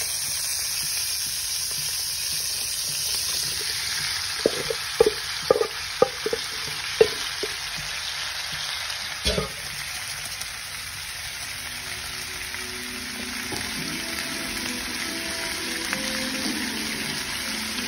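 Butter sizzling in a nonstick wok, then chopped leftover lechon frying in it: a steady frying hiss throughout. About five seconds in comes a quick run of short knocks, with one more near the middle.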